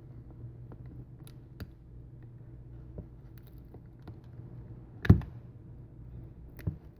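Scattered small clicks and taps of tools working at an iPad mini's screen edge, prying the LCD free of its adhesive, with one sharp knock about five seconds in and a smaller one near the end, over a low steady hum.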